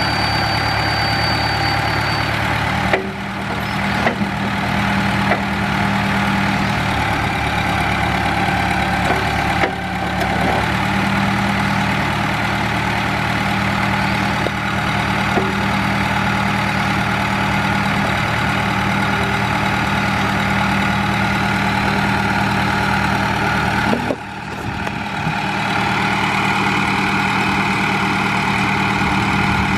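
Case DH4 articulated trencher-backhoe's engine running steadily at idle. A few brief knocks come with short dips in level, about three, ten and twenty-four seconds in.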